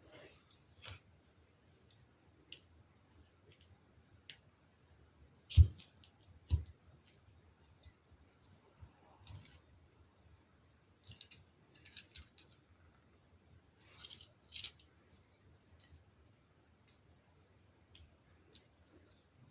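Plastic LEGO Technic parts being handled and clicked together: scattered light clicks and small rattling clusters, with two louder knocks about five and a half and six and a half seconds in.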